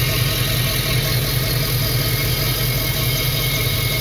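GM 5.3-litre V8 with stainless steel headers idling steadily and smoothly, a low, even hum.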